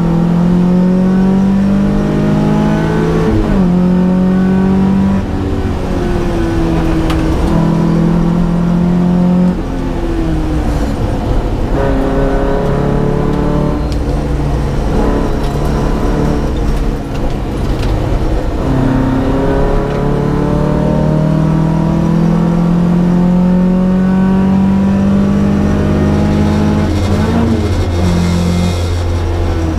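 Datsun P610 rally car's engine revving hard under acceleration. Its pitch climbs, drops at each gear change and climbs again several times, with stretches held at a steady pitch.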